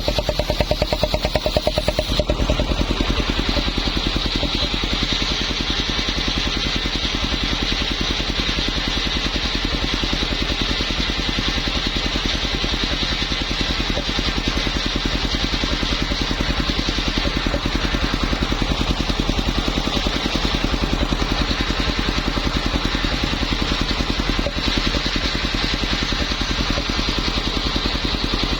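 Homemade circular saw rig running steadily, with a rapid engine-like pulse and a higher whine on top. A brighter high edge to the sound drops away about two seconds in.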